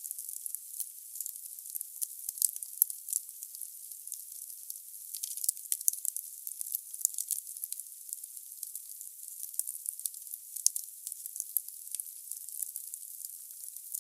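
Firewood burning in a fireplace: a steady hiss of fire with frequent sharp crackles and pops, the loudest ones about two and a half seconds in. It sounds thin, all high crackle with no low rumble.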